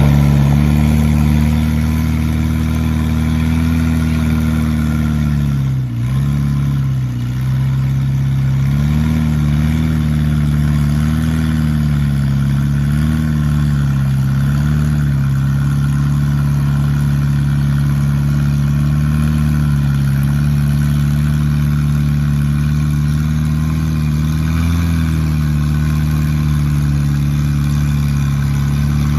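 Engine of a mud-suction dredge boat running steadily under load while it pumps thick mud. About six seconds in it briefly drops in revs and recovers, and its pitch wavers slightly now and then.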